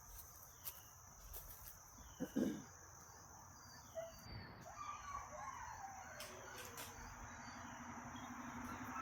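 Steady high-pitched insect chorus, like crickets, with faint sliding tones that fall in pitch midway through. A low rumble builds near the end.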